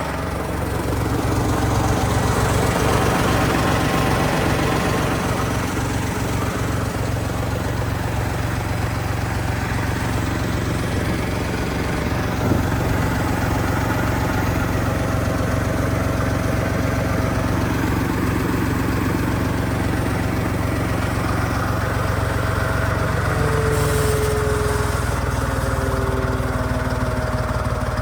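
Massey Ferguson MF40 tractor engine running steadily, picking up slightly about a second in.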